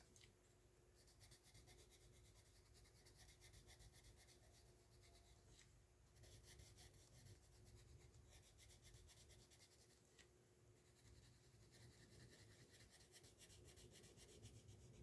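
Faint scratching of coloured pencils on paper, with quick repeated strokes as a colouring book picture is shaded with light pressure.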